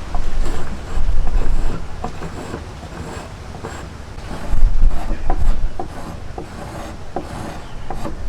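Hand woodworking: wood being rubbed or rasped in a few long, deep strokes, followed by a series of light clicks and knocks.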